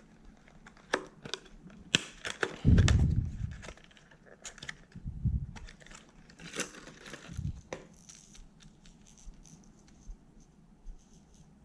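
Plastic fishing-lure packaging being handled and opened: irregular crinkling, rustling and sharp clicks, with a louder dull bump and rustle about three seconds in and smaller bumps later.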